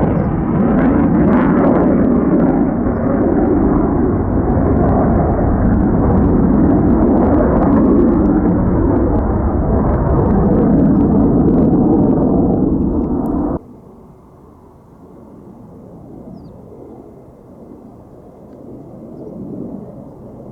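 Loud jet noise from a Lockheed Martin F-35A's single F135 engine flying a demo practice pass. About 13 seconds in it cuts off suddenly to a much quieter, distant rumble.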